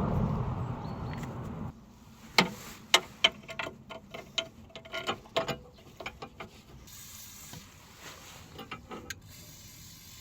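Irregular sharp metallic clicks and clinks of hand tools working on a car's front suspension, bunched in the middle with a few more near the end. A steady noise fades out in the first couple of seconds.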